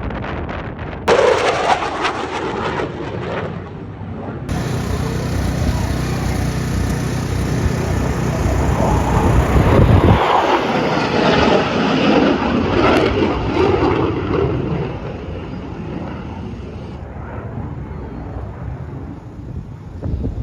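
Military aircraft engine noise across several short clips that cut in abruptly, with a strong low rumble through the middle.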